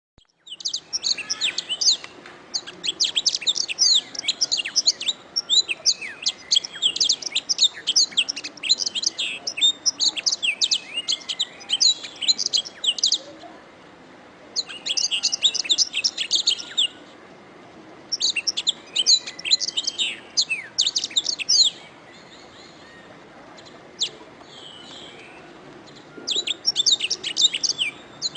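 Domestic canary singing: long phrases of rapid, high-pitched trills and chirps, broken by pauses of one to a few seconds, with a few single calls in one of the gaps.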